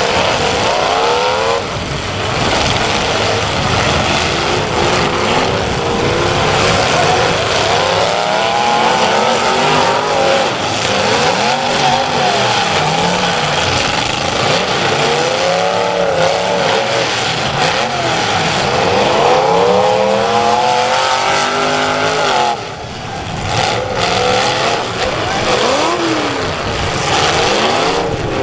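Several demolition derby cars' engines revving hard over and over, their pitches sweeping up and down and overlapping in a continuous loud roar as the cars push and ram each other. The roar drops briefly about three quarters of the way through.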